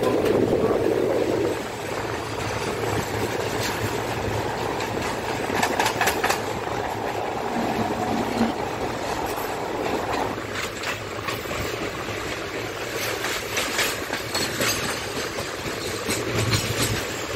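Running noise of an express passenger train heard from an open coach doorway: a steady rumble of wheels on track, with scattered sharp clicks as the wheels pass over rail joints.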